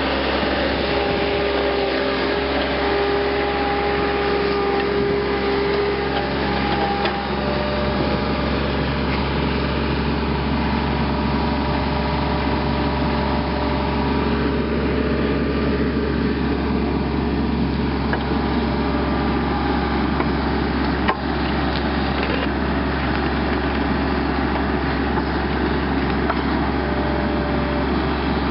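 Power wire brush scouring rust and old paint off a steel tractor rim, its motor running steadily with a harsh scratching noise; the pitch of the whine shifts a few times as the brush is pressed and moved. A single sharp click near the end.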